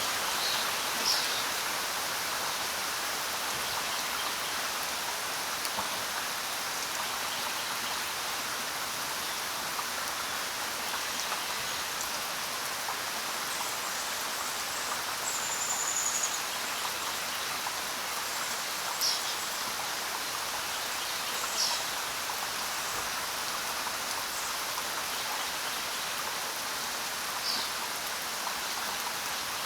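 Steady rain falling on the ground, an even patter of drops. A few brief high-pitched ticks stand out above it.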